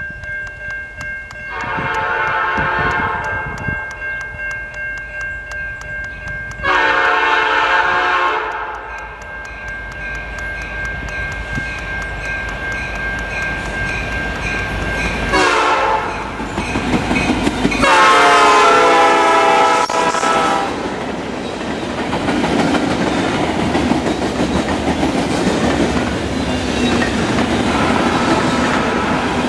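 Canadian National SD75I diesel-electric locomotive blowing its horn in the grade-crossing pattern, long, long, short, long, over a deep engine rumble as it approaches and passes about halfway through. After that, freight cars roll by with a steady clickety-clack of wheels on the rails.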